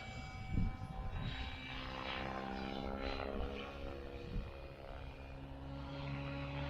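Synergy E5 electric R/C helicopter in flight: a steady pitched whine from its rotor and motor, fairly faint in the middle and growing a little louder toward the end.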